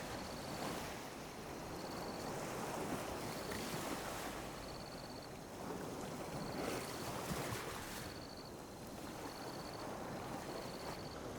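Small ocean waves lapping and washing on a beach, the surf swelling and easing every few seconds. A short high chirp repeats about once a second over it.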